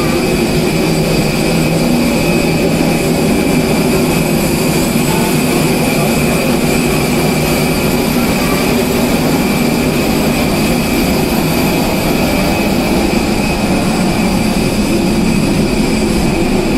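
Airliner's jet turbine running steadily: a loud, even roar with a steady high whine over it.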